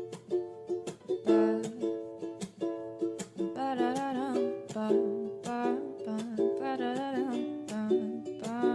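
Background music: a ukulele picking a steady pattern of notes, with a wordless, wavering melody line with vibrato coming in over it in the middle.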